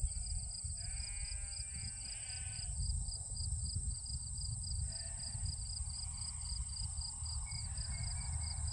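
Sheep bleating in a field: one call of about a second and a half a second in, a fainter one midway and another near the end, over a steady, evenly pulsing chirping of crickets.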